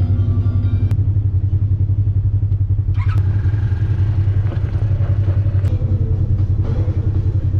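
Off-road side-by-side's engine running steadily under way, with a couple of brief knocks or rattles about three and six seconds in.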